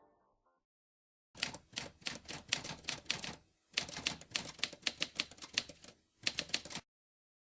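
Rapid typewriter key clacking in quick runs, starting about a second in, with two short breaks, and stopping shortly before the end.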